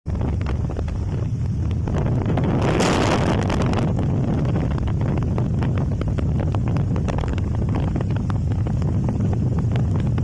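Heavy rain falling, dense short ticks of drops over a steady rumble of wind buffeting the microphone, with a louder rush of hiss about three seconds in that lasts around a second.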